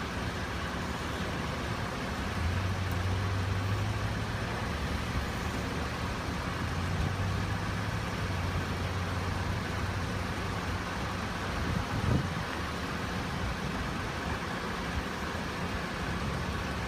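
Vehicle engine idling with a steady low hum, a little stronger in the first half, and a short bump about twelve seconds in.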